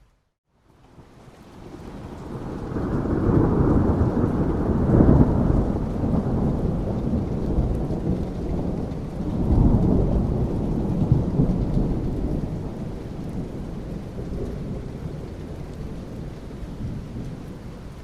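Thunder rumbling over rain. After a moment of silence at the start, a long, deep rumble builds over a couple of seconds. It swells twice, about five and ten seconds in, then slowly dies away under the steady hiss of rain.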